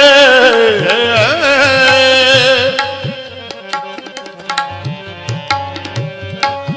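Shabad kirtan: a male voice holds and bends the last note of the sung line for the first few seconds. Then the singing stops and the tabla plays on alone over a steady harmonium note.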